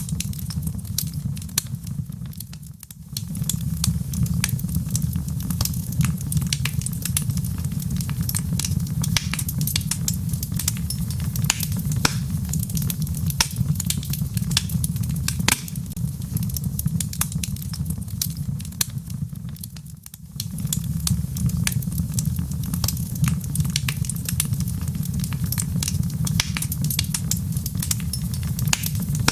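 Wood fire of burning logs crackling, with frequent sharp pops and snaps over a steady low rumble of the flames. The rumble drops away briefly twice, once near the start and once about two-thirds of the way through.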